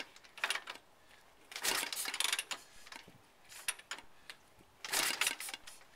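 1931 Indian 101 Scout being kicked over: several bursts of metallic clanking and scraping from the kick-starter, with no engine firing, since the engine is too cold to start.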